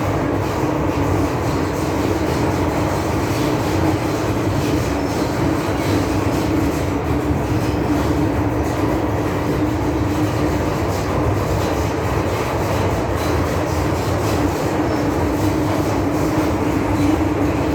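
MTR M-Train electric multiple unit running at steady speed: a continuous rumble of wheels on rail with a steady, unchanging hum.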